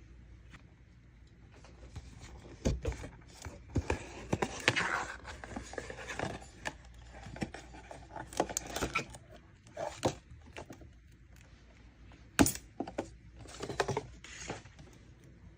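Close handling of merchandise and its packaging: irregular rustling with sharp clicks and knocks, the loudest knock near the end.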